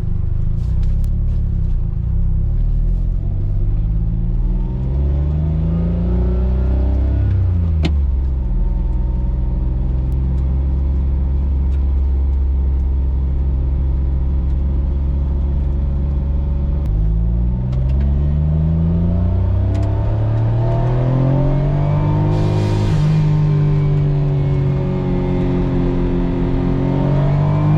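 Autozam AZ-1's turbocharged three-cylinder engine, heard from inside the closed cabin through a straight catalyst-less downpipe, pulling at low-to-mid revs. The pitch climbs, drops sharply about 8 seconds in at a gear change, holds steady at a cruise, then drops and climbs again about 17 seconds in and wavers near the end.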